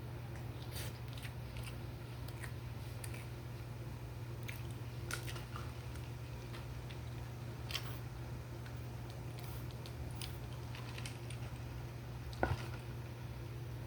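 A person chewing and biting food, with scattered soft mouth clicks over a steady low hum and one louder knock near the end.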